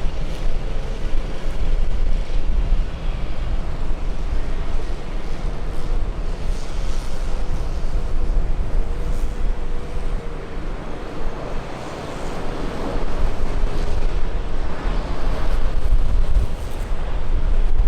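Wind buffeting the microphone, a heavy rumble that rises and falls, with a faint, wavering jet airliner engine tone underneath.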